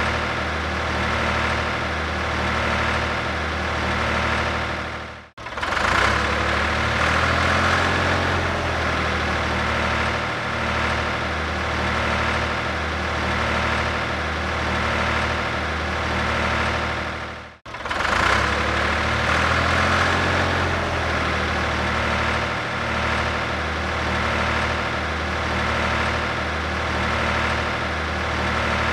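Tractor engine running steadily with a gentle, even pulse in its level. It cuts out abruptly twice, about five seconds in and again around eighteen seconds, and each time comes back a little louder before settling to the same steady run.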